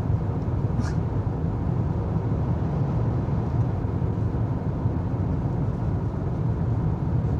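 Steady low rumble of a car driving, its engine and tyres heard from inside the cabin, with one faint click about a second in.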